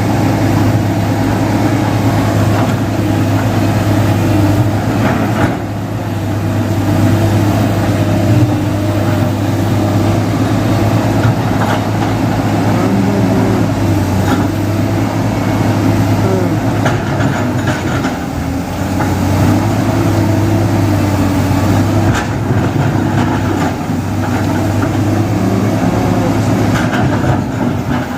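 Diesel engine of heavy construction machinery running steadily under work, with small changes in its note.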